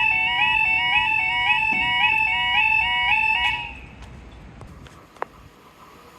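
Level crossing warning alarm sounding its two-tone warble, stepping between a higher and lower pitch about twice a second, then cutting off suddenly partway through. One sharp click follows in the quiet that remains.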